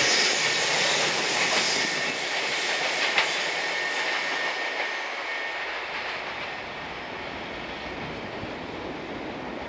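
JR Freight EF210-300 series electric locomotive pushing at the rear of a container freight train up a steep grade, passing close and then pulling away. Its wheel and running noise, with rail clatter, fades steadily, and there is one sharp click about three seconds in.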